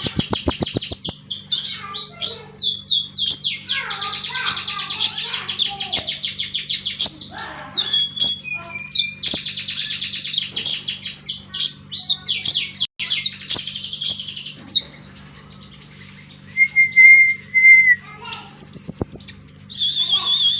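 Konin songbird singing rapid, sharp, high chattering phrases in quick volleys. These break off about three-quarters of the way through, giving way to two loud, level whistled notes and a brief trill, over a steady low hum.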